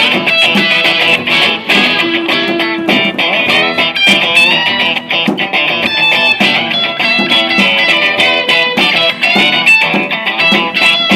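Live band music led by guitar, with busy picked and strummed notes.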